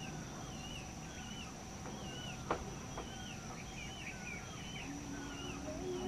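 Small birds calling: a run of short, wavering chirps repeated about twice a second, some overlapping. A sharp click sounds about two and a half seconds in.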